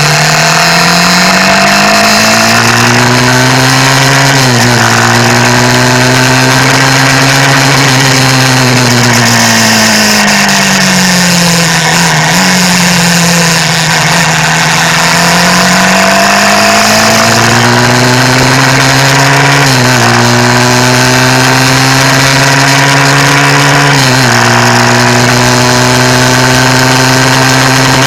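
Motorcycle engine running under way, its pitch climbing as it accelerates and dropping sharply at upshifts about four and a half seconds in and again near twenty and twenty-four seconds. In between, the engine note sinks as the bike slows down, then rises again.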